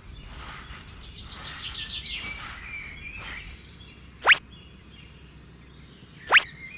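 Outdoor ambience with birds chirping over a steady hiss, followed by two short, loud, fast-rising whistle glides about two seconds apart.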